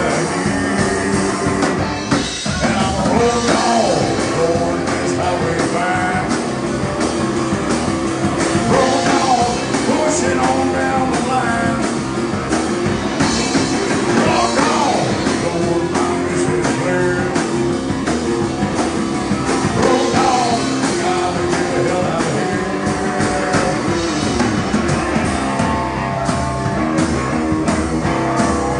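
A live rock band playing a song with a singer's vocals over guitar and drums, at a steady beat.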